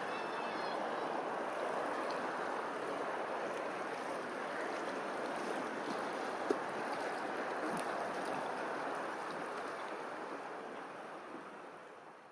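Steady rush of running water, with a short high chirp near the start and a single sharp click about halfway through; the sound fades out at the end.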